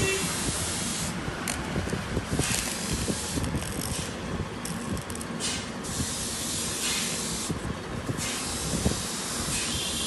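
Wire-feed welder arc hissing and crackling in runs, breaking off and restarting about four times.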